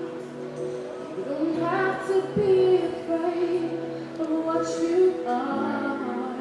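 A slow song sung by a female voice, with long held notes over soft accompaniment.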